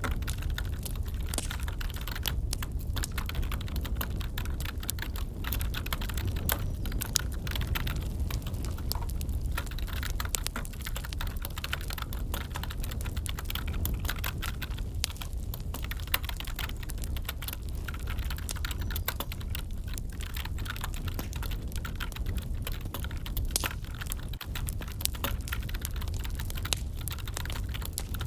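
Computer keyboard typing: a steady, irregular stream of key clicks over the low, steady crackle and rumble of a wood fire in a fireplace.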